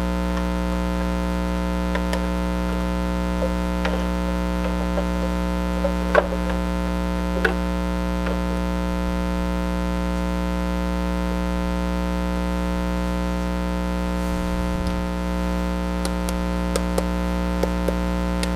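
Steady electrical mains hum with a ladder of overtones, with a few faint, light clicks over it, the clearest about six and seven and a half seconds in.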